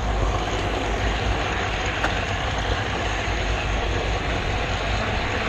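Steady rolling rumble of a model railroad camera car running along the track, picked up by the GoPro riding on it, with one faint tick about two seconds in.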